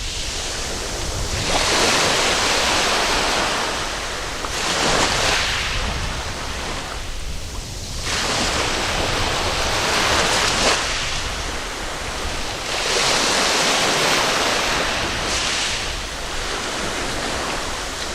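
Waves breaking and washing up a sandy beach, a surge of surf every three to four seconds.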